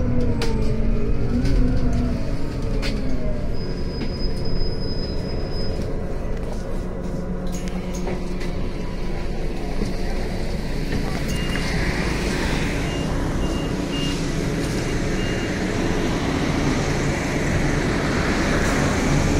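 Cabin sound of a Scania CN280UB city bus's CNG engine and drivetrain running, a steady low rumble with rattles. A falling whine comes over the first couple of seconds, and a few short high beeps come around the middle.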